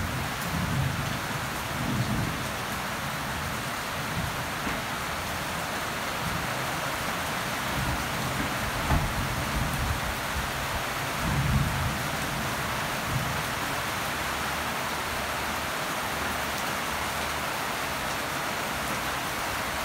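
Steady rain falling on leafy garden plants, an even hiss throughout. Short low rumbles come and go, the strongest at the very start and about eleven seconds in.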